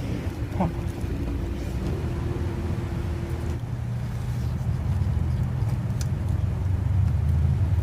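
Steady low rumble of a car heard from inside the cabin, with a steady hum that stops about three and a half seconds in; the rumble grows a little louder after that.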